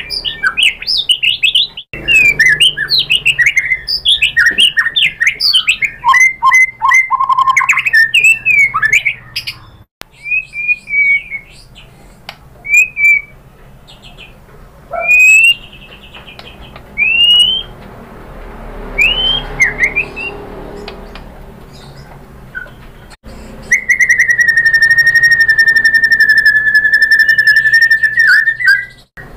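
White-rumped shama singing: a fast, dense run of varied whistled notes and trills, then scattered short upslurred whistles with pauses between them. Near the end comes one long steady whistle held for about five seconds.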